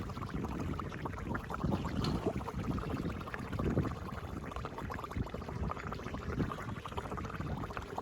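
Floodwater gurgling and churning as it drains down a cleared drain grate, with an uneven, splashy rush.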